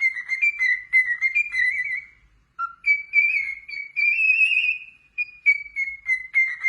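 A parrot whistling a tune in a run of short clear notes, with a brief break a little past two seconds in and a longer held note around the middle.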